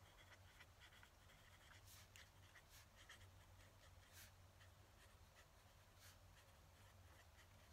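Fountain pen nib scratching faintly across paper in short, irregular strokes, with a steady low hum underneath.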